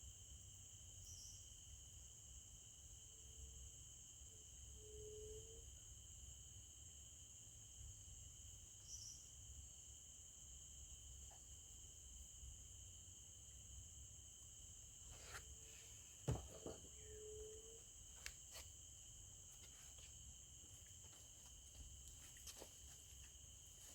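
Faint, steady chirring of insects in two high pitches, with a few short low calls and a couple of brief clicks.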